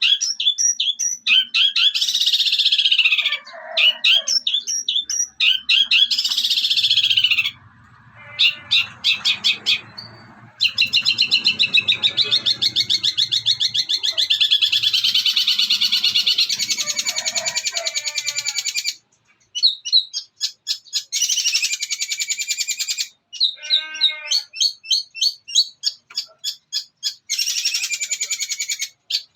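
Long-tailed shrike (cendet) singing in long runs of rapid, chattering high notes with a few short pauses. It is mimicking the fighting-sparrow chatter ('gereja tarung') prized in training song.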